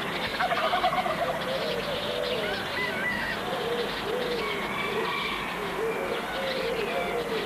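Birds calling: short low calls rising and falling over and over, with higher chirps above them, and a rapid stuttering call about half a second in that is the loudest part.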